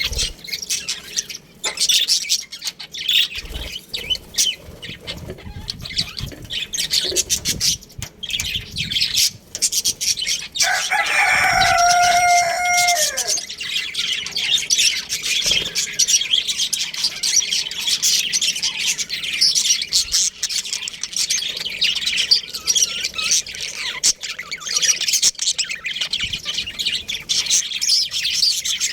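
A flock of budgies chattering and chirping without a break, with one rooster crow about ten seconds in, held level and then falling away.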